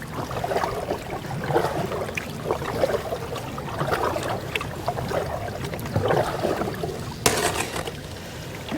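Canoe paddle strokes and water swirling around the hull, about once a second, in a river with thin ice. There is one sharp splash or crackle about seven seconds in.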